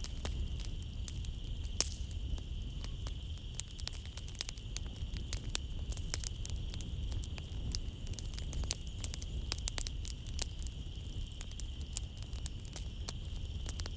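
Wood fire crackling in a fireplace, with frequent small pops and a louder pop about two seconds in, over a low steady rumble. A steady high chirring of night insects, such as crickets, runs underneath.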